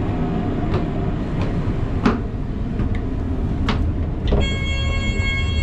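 Passenger train running, heard from inside the carriage: a steady low rumble with faint clicks every second or so from the wheels on the rails. Near the end a steady high-pitched tone with several overtones starts abruptly.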